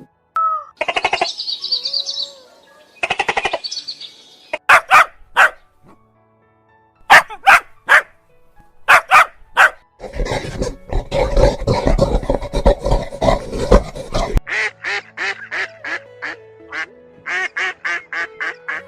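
Animal calls in short repeated groups, among them ducks quacking, with background music underneath; about ten seconds in, a denser, noisier stretch of calls runs for some four seconds.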